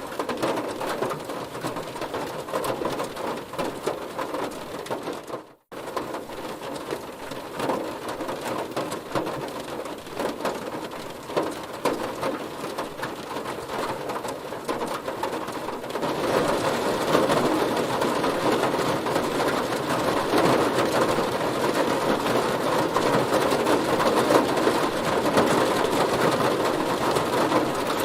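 Heavy rain hitting a car's body, a dense patter of drops. The sound cuts out for a moment about five seconds in, and the rain grows heavier and louder about halfway through.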